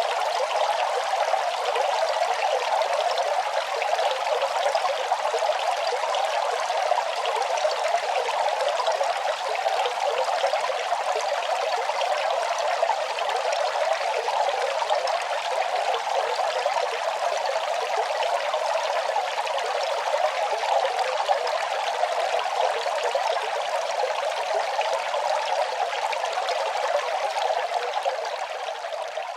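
Running water, a steady, continuous trickling flow with no low rumble, beginning to fade away near the end.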